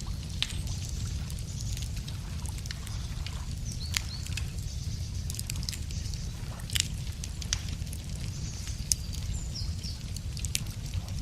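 Wood fire crackling, with sharp pops scattered irregularly over a low steady rumble. Birds chirp briefly a few times in the background, about four seconds in and again near the end.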